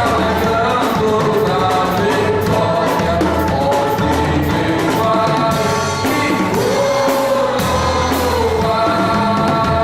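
Gospel worship music: voices singing a melody over a band, with drums and cymbals keeping a steady beat.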